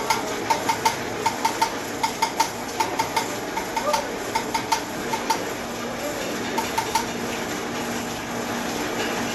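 Light metal-on-metal taps, as of a small hammer or tool striking metal, each with a brief ring, coming irregularly about two or three a second and stopping about seven seconds in, over a steady background hum.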